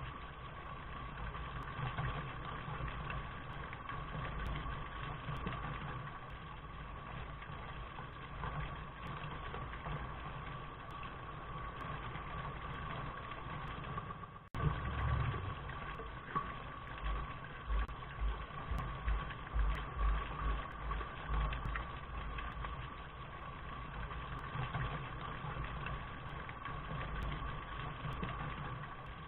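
Steady rain noise with a low, uneven rumble underneath, briefly cutting out about halfway through.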